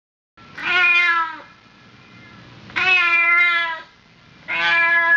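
A cat meowing: three long, drawn-out meows about two seconds apart.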